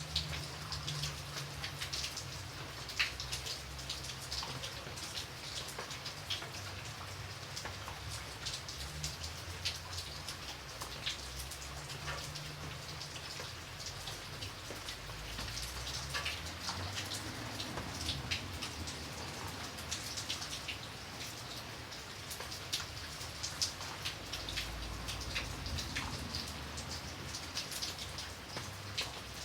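Steady rain falling: a soft continuous hiss dotted with many individual drops ticking sharply, over a faint low rumble.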